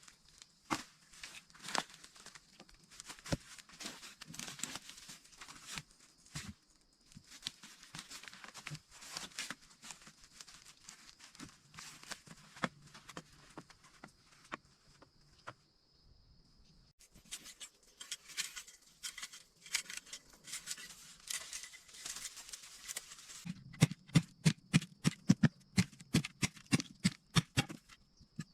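Hand work on bamboo and dry grass: irregular rustling, scraping and light clicks, then, about five seconds from the end, a run of quick, evenly spaced knocks, about four a second, which is the loudest part.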